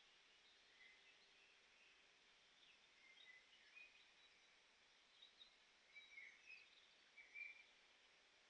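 Faint, distant birdsong: scattered short chirps and twitters over a near-silent evening lakeside background, with a slightly louder chirp near the end.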